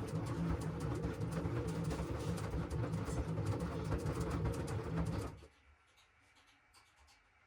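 LG washing machine running, with a steady hum and many small clicks and knocks from the turning drum. About five seconds in it stops abruptly, leaving near silence.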